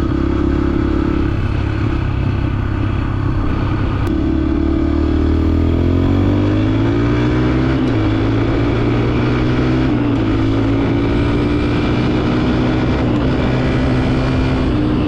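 125 cc dirt bike engine under way, pulling up through the gears: the engine note climbs, drops back at two gear changes near the middle, then holds steady at cruising speed.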